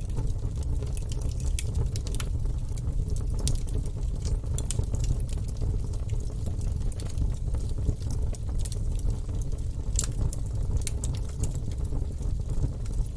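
Wood fire burning in a fireplace: logs crackling with irregular sharp pops over a steady low rumble of flames.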